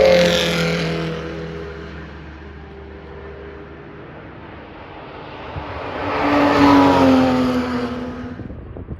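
Two cars driving past at speed. The first is fading away at the start, and the second swells to a peak about seven seconds in, its engine note dropping in pitch as it goes by, then fades.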